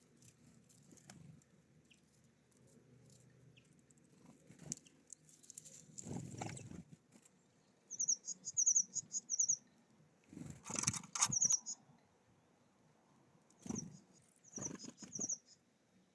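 Small songbirds at a feeder: three short runs of rapid, high-pitched chirps, with brief wing flutters and knocks as birds land and move about.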